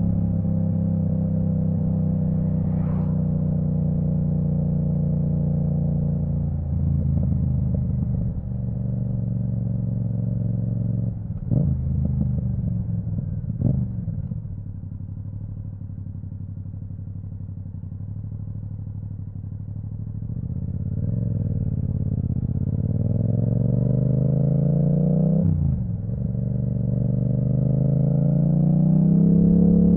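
Yamaha MT-07's 689 cc parallel-twin engine through an Akrapovic full titanium exhaust with the dB killer removed, riding at a steady speed, then two quick gear changes, then easing off to a lower, quieter note. Near the end the revs climb, drop sharply once at a quickshifted upshift, and climb again.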